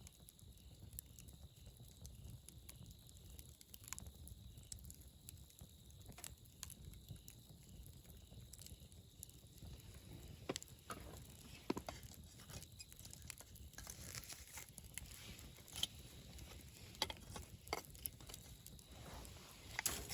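Wood campfire crackling: scattered sharp pops and snaps over a low steady background. They come more often and louder in the second half.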